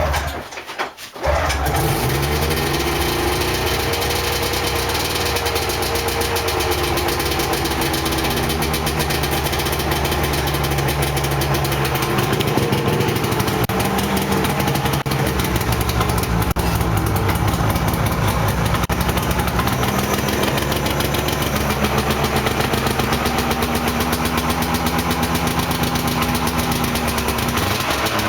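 1998 Yamaha 500 snowmobile's two-stroke engine cold-started, catching about a second in and then running steadily at idle, its speed rising and falling slightly.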